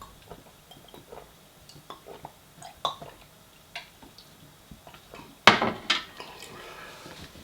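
Cutlery and dishes clinking: a run of light taps and scrapes, then two louder knocks about five and a half seconds in, followed by brief ringing.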